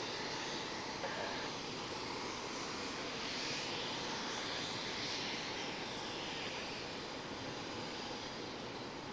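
Eurofighter Typhoon's twin EJ200 jet engines heard from a distance: a steady rush that slowly fades toward the end.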